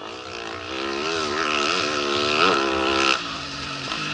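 Rally motorcycle engine passing at speed, its note rising and falling with the throttle and loudest about two and a half seconds in. The sound drops off suddenly about three seconds in.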